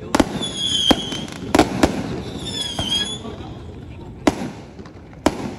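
Aerial fireworks bursting: a string of sharp bangs at irregular intervals, several in the first two seconds, then a pause and two more near the end, with two high whistles in between.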